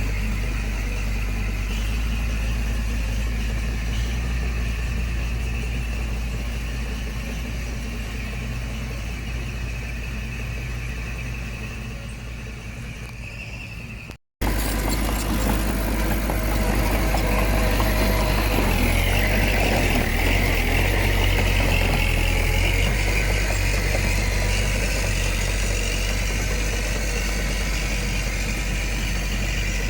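Heavy diesel construction machine engine running steadily, fading slightly, then cut off abruptly for an instant about halfway through; after the break the engine is louder, with its pitch shifting for a few seconds before settling.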